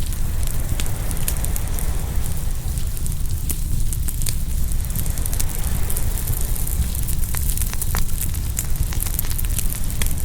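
Open fire crackling and popping, with many sharp snaps and a louder pop about eight seconds in, over ocean waves washing in and a steady low rumble.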